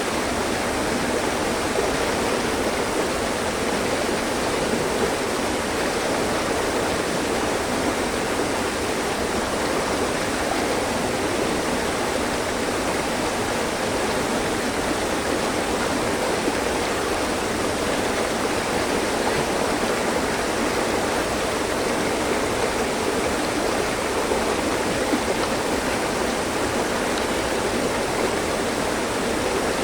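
Mountain stream flowing over rocks, a steady, even rushing of water with no pauses or changes.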